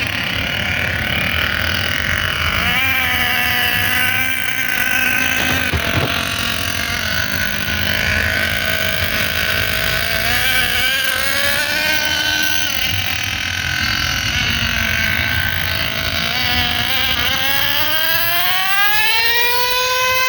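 Thunder Tiger MTA4 S28 RC monster truck's small nitro engine running, its pitch rising and falling with the throttle, then climbing steadily to a high, held whine near the end. The pitch never drops back as a shift into second gear would make it: the two-speed gearbox is not changing over.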